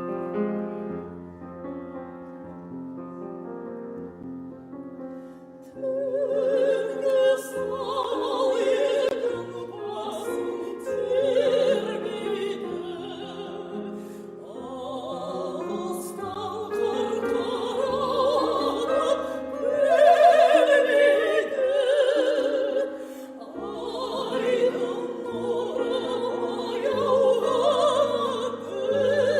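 Piano introduction, then a classically trained operatic voice with wide vibrato enters about six seconds in and sings over the piano accompaniment.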